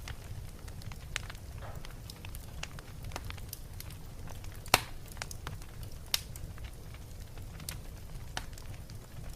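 Wood fire crackling in a fireplace: scattered pops and snaps over a low steady rumble, with a sharp loud pop about halfway through and a smaller one about a second and a half later.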